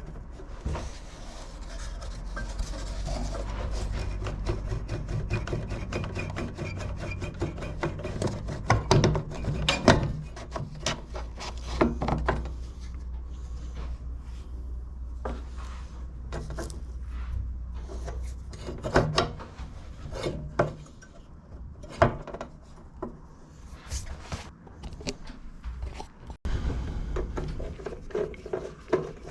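Rasping and scraping of hand-tool work on mower parts, with many scattered clicks and knocks of metal parts, over a low steady hum that stops about halfway through.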